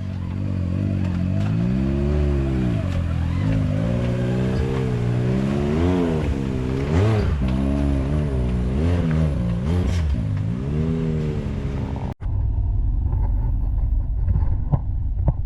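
Side-by-side UTV engine revving up and down again and again, its pitch rising and falling with each blip of the throttle, as when working a machine over rough terrain. About twelve seconds in the sound cuts off abruptly and gives way to a steadier, duller engine running with a few knocks.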